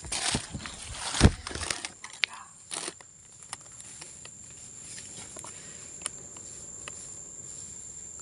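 Footsteps and rustling through dry leaves and undergrowth, with a sharp knock about a second in, stopping after about two seconds. A steady high insect drone carries on throughout, with a few faint ticks.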